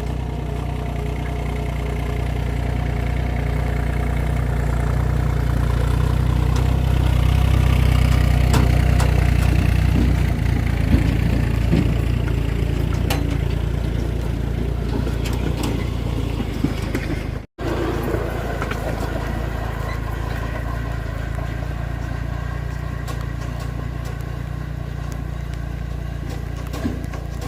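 An engine running steadily, with a deep low hum and occasional sharp clicks and knocks. It grows louder for a few seconds about a third of the way in, then settles back. There is a momentary break just past the middle.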